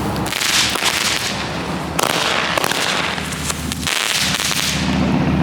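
A burning ground firework hissing with dense crackling in waves, dying down near the end.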